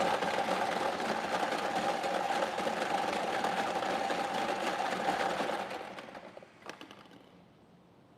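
Motorised lottery draw machine running after its button is pressed, mixing the numbered balls with a steady whirring rattle. It winds down about six seconds in, followed by a few light clicks.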